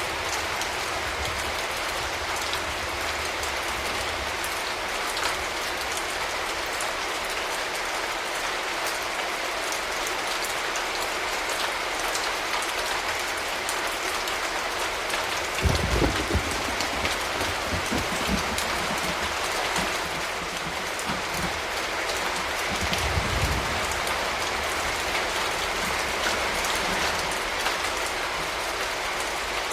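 Steady rain falling, with two short low rumbles of thunder, one about halfway through and one a few seconds later.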